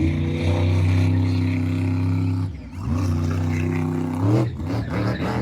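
Monster truck engine held at high revs, dropping off briefly about two and a half seconds in and revving back up, then blipped a few times near the end.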